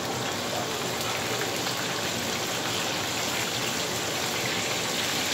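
Chicken pieces and onions sizzling steadily in hot oil in a deep frying pan as the pieces are set back in with metal tongs.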